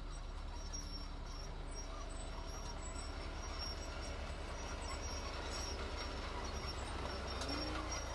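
Heavy diesel earthmoving machinery running steadily, with a low, even engine sound throughout.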